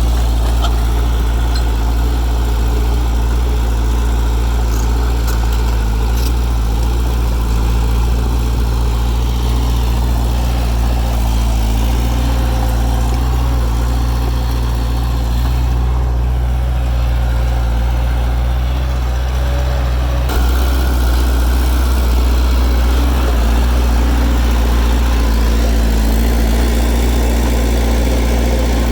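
Heavy diesel engine of earthmoving machinery running steadily, with a strong low drone. Its tone shifts suddenly about two-thirds of the way through.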